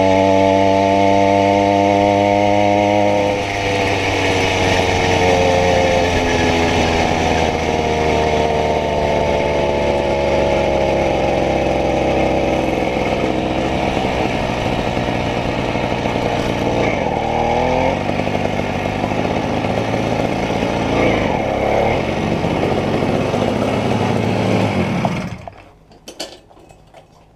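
80cc two-stroke bicycle engine kit running, its pitch rising and falling with the throttle, then cutting off about 25 seconds in.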